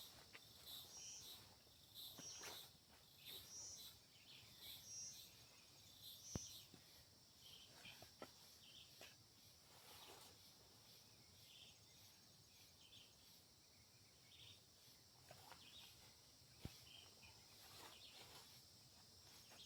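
Faint forest insect chorus: a steady high trill, with short high calls repeating about once a second over the first six seconds and a few sharp clicks.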